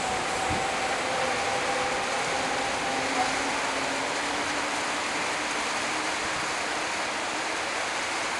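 A Frecciarossa high-speed electric train receding after passing at speed, its running noise dying away over the first few seconds and leaving a steady hiss.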